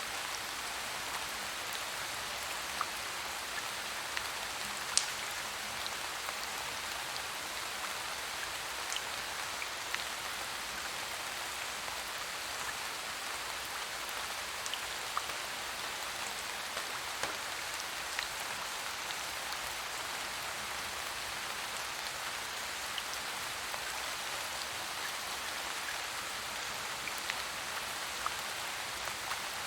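Steady rain falling, an even hiss with scattered sharp ticks of individual drops; the loudest tick comes about five seconds in.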